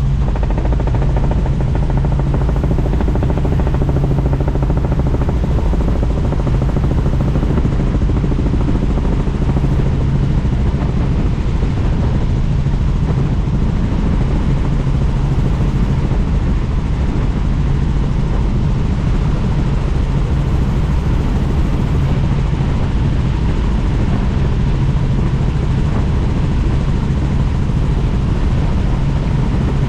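Helicopter in flight heard from on board: a steady, loud drone of rotor and engine.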